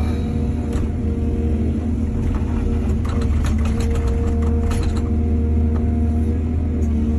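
Excavator's diesel engine running steadily under load, with a run of clattering knocks about two to five seconds in.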